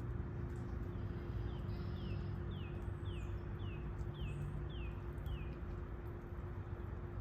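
A bird calls a series of about eight short, downward-slurred notes, roughly two a second, from about one and a half seconds in to about five and a half seconds in. Under it run a steady low rumble and a constant low hum.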